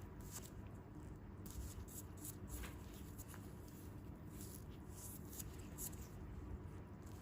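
Faint, irregular soft crackling and rustling from hands working on bare feet and skin, over a low steady hum.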